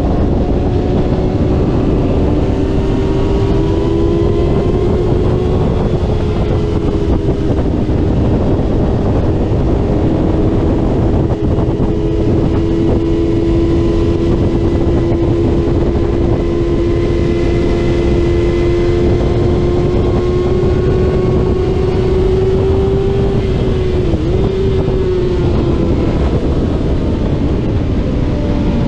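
Racing motorcycle engine heard onboard, held at high revs with only small changes in pitch, under heavy wind rush on the microphone. The revs dip briefly about 24 seconds in, then climb again near the end.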